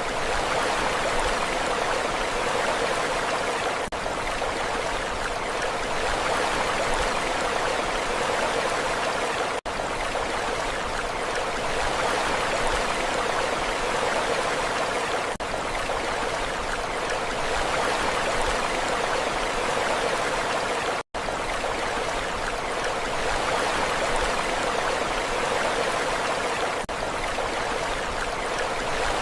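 Steady rushing water with a gentle rise and fall, a short recording looped about every six seconds with brief dips at the joins, one of them a near-silent dropout.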